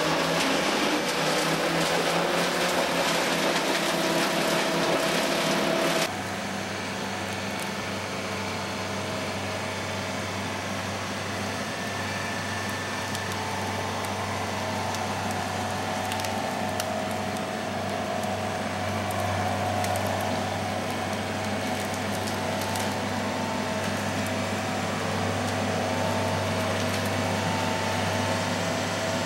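Large engine-driven machinery running steadily. About six seconds in, the sound drops abruptly to a somewhat quieter, steady lower hum.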